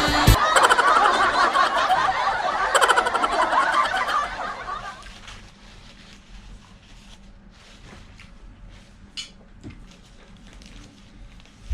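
A laughter sound clip over music fades out in the first few seconds, followed by faint clicks and smacks of chewing.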